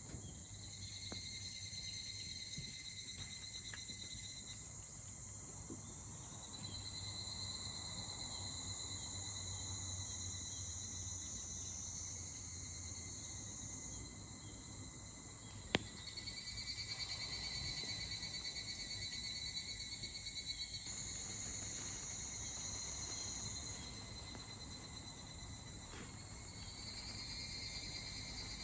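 Several insects singing together in a steady, high-pitched chorus, with voices dropping out and coming in every few seconds. A single sharp click sounds about halfway through.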